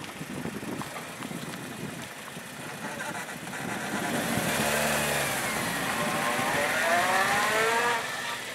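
Acura RSX coupe driven in reverse: its four-cylinder engine rises in pitch as the car gathers speed backwards, eases and climbs again, then drops away near the end.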